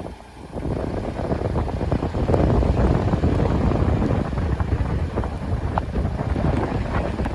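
Wind buffeting the microphone over a low, uneven rumble.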